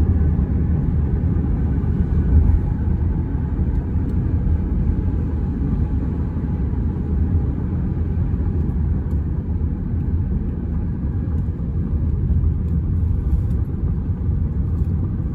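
Steady low rumble of highway traffic on the Route 380 bridge.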